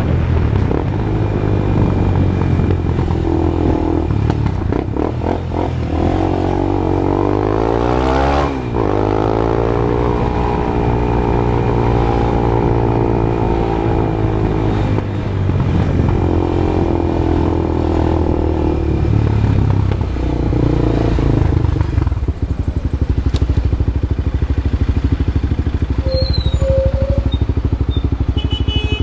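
Honda CB Twister motorcycle's single-cylinder engine running through a new aftermarket exhaust, loud. It is revved up, dropping back sharply about eight seconds in, held at raised revs, given a few more rises, then settles into an even pulsing idle for the last several seconds.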